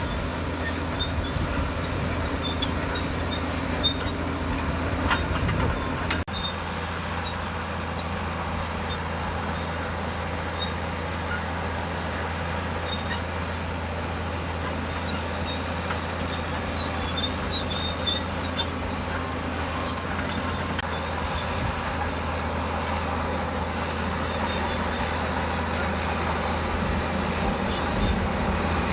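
Komatsu D65EX bulldozer's diesel engine running steadily, with faint high clicks scattered over it.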